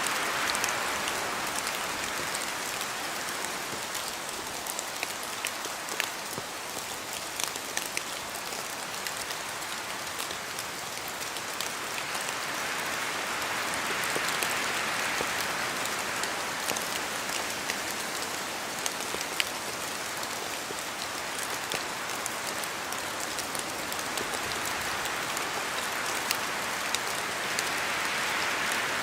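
Steady rain falling in a spruce forest, with many sharp ticks of drops striking close by. The rushing hiss swells and eases slowly, about every fourteen seconds, as wind blows through the trees.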